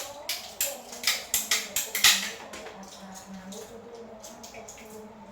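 A fast, irregular run of sharp clicks and knocks, like hard parts or tools being handled, for about the first two seconds, then quieter.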